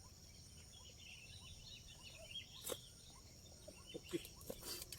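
Faint outdoor ambience: a steady high insect drone with small birds chirping now and then. A single sharp click comes a little under three seconds in, and soft knocks and rustling come near the end.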